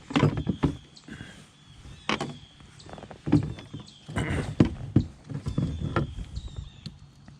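Irregular knocks and clatters of a small bass being handled in a kayak: the fish and gear bumping against the hull.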